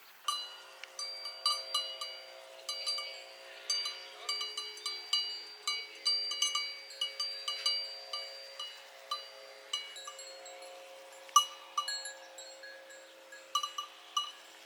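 Several cowbells clanking irregularly at different pitches, their rings overlapping, as from grazing cattle moving about.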